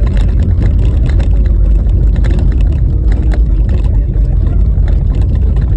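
Car driving over a rough, bumpy snow-covered road: a loud, steady low rumble of tyres and wind, with frequent short knocks and rattles from the jolting ride.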